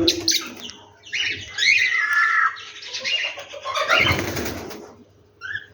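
Several birds calling in a morning chorus: short chirps and squawks, some of them gliding in pitch, with a brief noisy burst about four seconds in.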